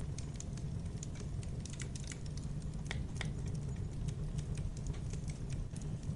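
Bonfire burning: a steady low rumble with frequent irregular crackles and pops from the burning wood, a couple of louder snaps about three seconds in.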